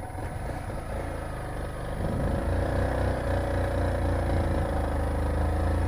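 A motorcycle engine revs up and pulls hard under load, climbing a steep slope. It grows louder about two seconds in and then holds a steady, strained note.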